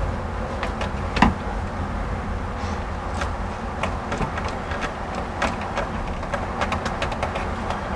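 Small clicks and handling noises of electrical wires being joined and wire nuts twisted on by hand, with one sharper click about a second in, over a steady low hum.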